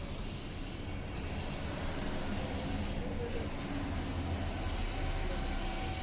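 Aerosol spray paint can hissing as a coat is sprayed onto a motorcycle wheel rim, in long bursts with brief breaks about a second in and about three seconds in.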